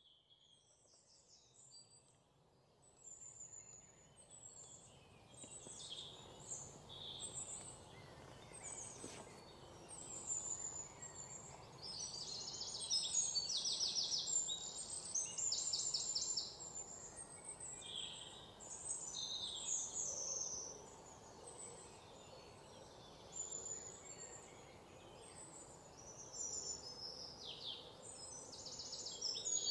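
Songbirds chirping and singing: short high calls and quick rattling trills, the loudest trills midway and near the end, over a faint steady outdoor background noise.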